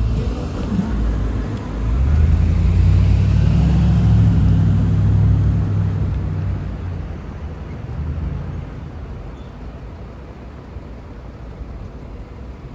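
Transit bus engine rumbling as the bus drives past close by, loudest a few seconds in and then fading as it moves away.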